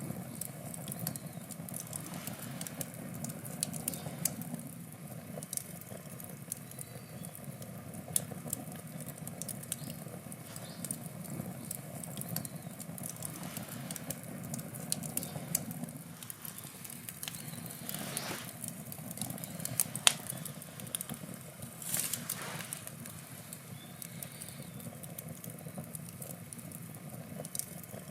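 Wood campfire burning, with a steady low rush of flame and many small crackles and pops from the burning logs. The sharpest pop comes about two-thirds of the way through.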